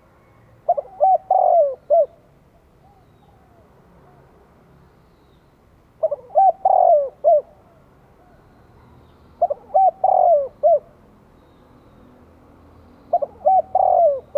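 Spotted dove calling: four cooing phrases about four seconds apart, each a few short coos around a longer, louder middle note.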